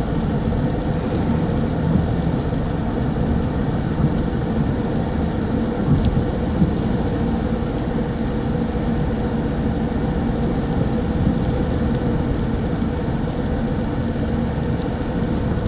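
Steady engine and road noise of a car driving, heard from inside the car, with a single faint click about six seconds in.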